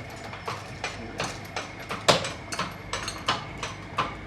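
Rapid, irregular metallic clicks and knocks from hand tools working on the car's engine, with one louder knock about two seconds in.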